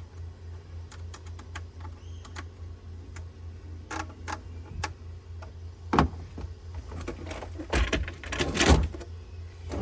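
Scattered light clicks and clatter of plastic pool-robot parts and screws being handled, with louder knocks about six seconds in and twice near the end. A steady low hum runs underneath.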